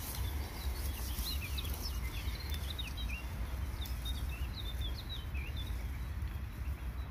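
Small birds chirping in quick, short notes, scattered through most of the stretch, over a steady low rumble.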